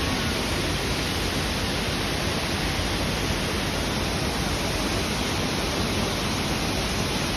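Waterfall: a steady, unbroken rush of falling water spread evenly from low to high pitches.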